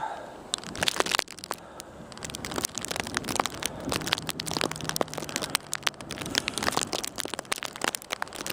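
Footsteps crunching and squeaking in deep snow, an irregular run of short crunches, with a faint steady low hum in the middle.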